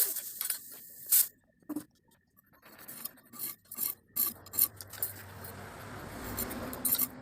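Hand filing: a few separate short scraping strokes, then a longer continuous stretch of rubbing from a little past the middle.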